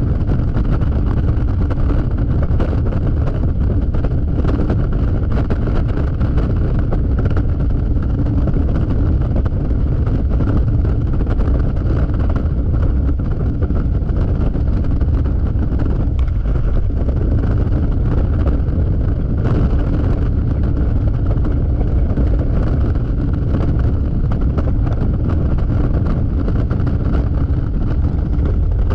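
Yamaha XMAX scooter riding at speed: steady wind rush and buffeting on the microphone, with the scooter's engine droning steadily underneath.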